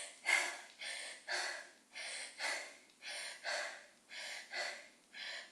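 A woman breathing hard in a quick, even rhythm of short huffing breaths, about two a second, from the effort of pulsing in a lunge.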